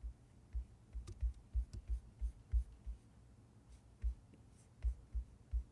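A stylus tapping and dragging on a tablet's glass screen: about a dozen short, dull taps at an uneven pace, with a pause of about a second in the middle.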